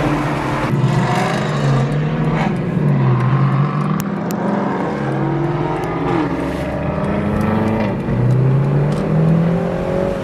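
Several car engines and exhausts revving and accelerating in traffic, their pitch rising and falling, heard through the open windows of a moving car.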